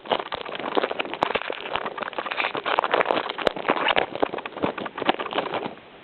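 Foil wrapper of a Yu-Gi-Oh! booster pack crinkling and rustling in the hands as it is torn open, a busy irregular crackle that eases off near the end.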